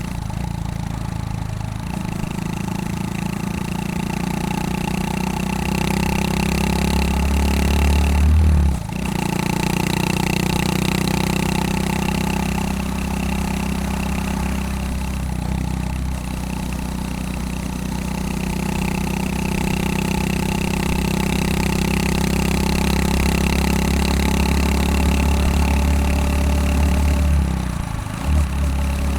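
Honda Super Cub 110 (JA59) single-cylinder four-stroke engine running through a Takegawa P-Shooter aftermarket muffler while riding. The exhaust note is steady, grows louder up to about eight seconds in, then dips briefly, and dips once more near the end.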